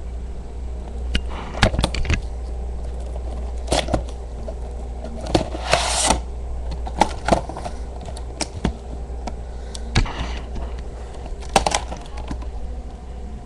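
Handling of a model airliner and its packaging: scattered clicks, taps and scrapes, with a longer rustle about six seconds in, over a steady low hum.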